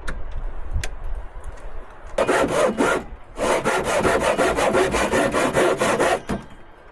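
Hand saw cutting through wood in quick, rhythmic strokes. It starts about two seconds in, pauses briefly, then keeps cutting before stopping near the end.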